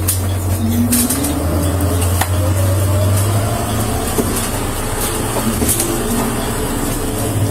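Steady low mechanical hum, like an engine or ventilation running, with a few faint clicks.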